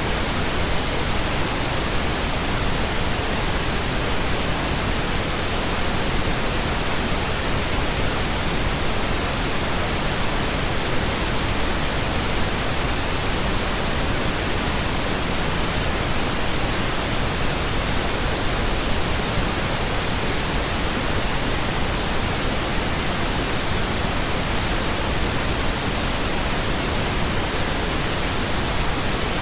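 Steady pink noise: an even, unchanging hiss spread across all pitches, with no tones or events.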